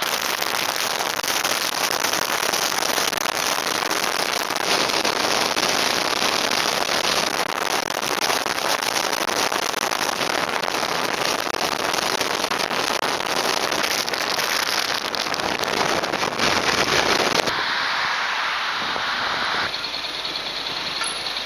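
Loud wind noise buffeting and crackling on an action camera's microphone, a dense rushing hiss full of brief crackles. It eases and thins in the low end about 17 seconds in.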